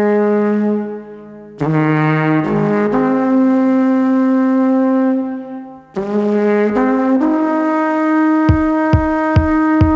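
Alphorn playing a slow melody of long held notes in three phrases, with short breaths between them. Near the end a low drum beat comes in underneath at about two beats a second.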